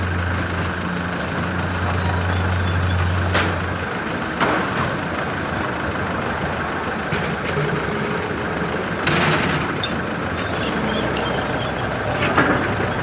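Heavy vehicle running, with a steady low engine hum that stops about four seconds in under constant noise. A few short knocks or hisses come through at intervals.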